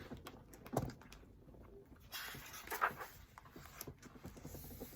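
Quiet room with a few soft clicks and a brief rustle of paper from about two seconds in: a picture book's page being handled and turned.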